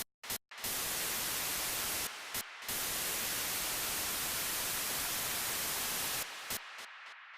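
Electronic static hiss, like a detuned radio or TV, that stutters in with a few short blips and then holds steady. It drops out briefly twice, then thins and fades near the end.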